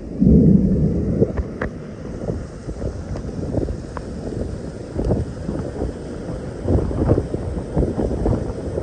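Wind buffeting the microphone, an uneven low rumble that gusts loudest in the first second and then rises and falls.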